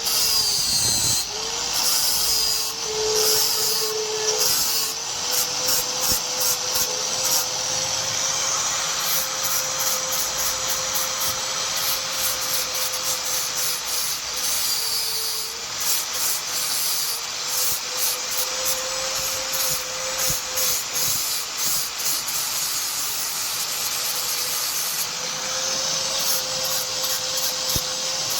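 An electric grinder or sander running steadily, grinding against the workpiece with a rough rubbing scrape. Its motor tone sags briefly a few times as the work is pressed in.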